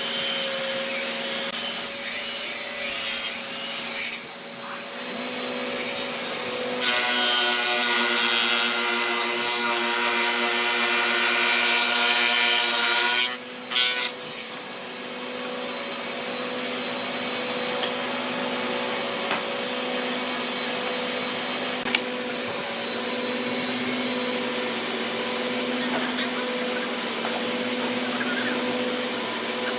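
Electric power tool running on hardwood, with a steady motor hum and the rasp of the wood being worked. It grows louder and harsher for about six seconds from about seven seconds in, then settles back to a steady run.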